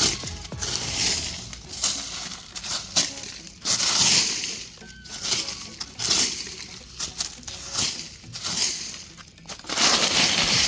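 Leaves rustling and crunching in irregular bursts as they are turned over and handled by hand.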